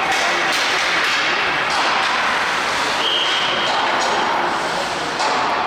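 Ice hockey game in an arena: a steady din of spectators' voices, cut by sharp cracks and thuds of sticks and puck on the ice and boards. A short high-pitched tone sounds about three seconds in.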